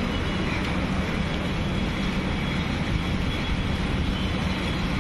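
Heavy rain falling steadily onto flooded pavement: an even, unbroken hiss of rain and splashing water.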